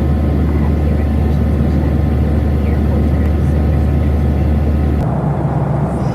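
Steady, loud rumble of a Boeing 737-800's CFM56 engines and airflow heard inside the cabin. About five seconds in it changes abruptly to a thinner rumble with less of the deep hum.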